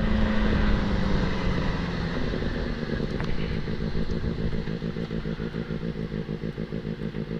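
Benelli TNT 600 inline-four motorcycle engine running steadily at highway speed, heard from the rider's position with wind rush. The engine note eases slightly over the first couple of seconds, then holds level.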